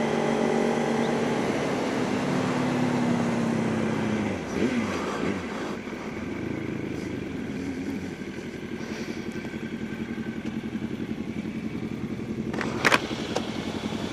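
Motorcycle engine running on the road. It holds a steady note for about four seconds, then the pitch drops as it eases off, and it runs lower with a regular pulsing. A sharp knock comes near the end.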